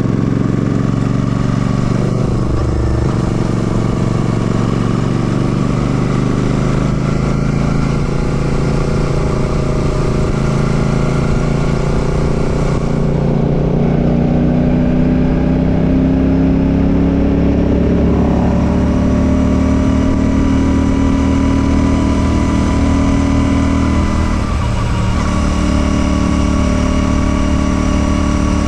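Royal Enfield Classic 650's parallel-twin engine running as the bike rides along. The revs climb slowly for several seconds from about a third of the way in, and dip briefly near the end, like a gear change.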